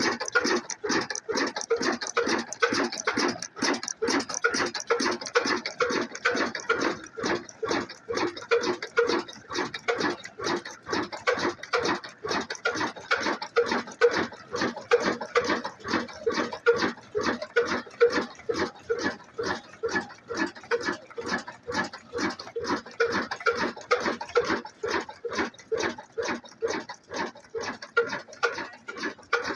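Single-cylinder 'black engine' diesel driving an atta chakki flour mill, running at a steady, even beat of a few strokes a second.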